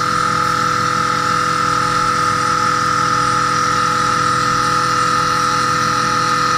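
Machine-tool spindle running at steady speed with a constant whine over a mechanical hum.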